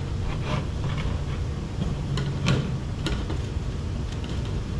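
A few light clicks and taps of the plastic cabin filter housing and filter being handled and fitted, over a steady low hum.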